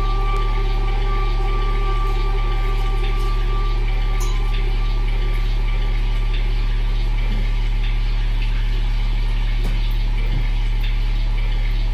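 Live noise music: a loud, steady low electronic drone, with higher held tones that fade out about four seconds in, and scattered clicks.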